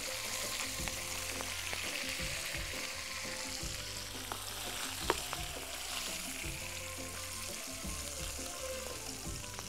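Chicken pieces frying in hot fat in a pan with a steady sizzle, as they are stirred and turned with a spatula and spoon. There is one sharp tap about five seconds in.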